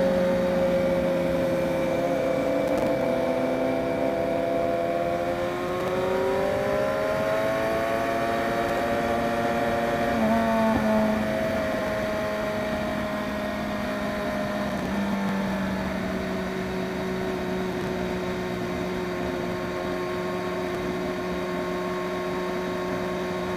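BMW S1000RR inline-four engine running at a steady cruise, with wind rush; its pitch rises a little about a third of the way in, then eases off again around two-thirds of the way through.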